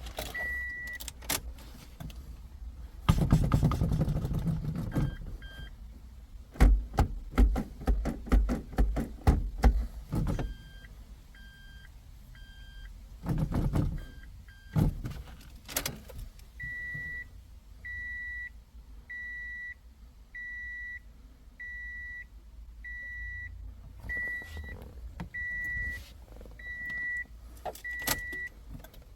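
Short electronic beeps during recalibration of a Toyota MMT semi-automatic gearbox. In the second half, about ten evenly spaced beeps come a little over a second apart. In the first half, a few beeps are mixed with a burst of whirring and a rapid run of mechanical knocks, about five a second.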